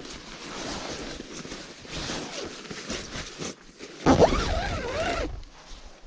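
A tent zipper being worked, with nylon fabric rustling and scraping. About four seconds in comes a louder, short wavering pitched sound with a low rumble, which breaks off suddenly.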